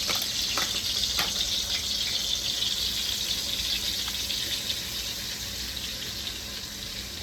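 Curry powder frying in hot oil in a pot, a steady sizzle that slowly eases off, with a few light utensil clicks in the first second or so.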